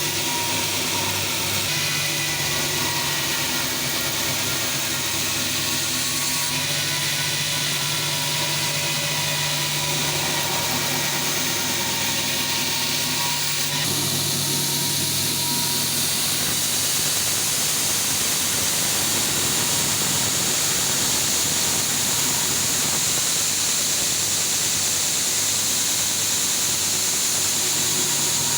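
Belt grinder running, grinding a leaf-spring steel knife blank: a steady motor hum with the hiss of steel on the abrasive belt, which grows harsher and takes over about halfway through.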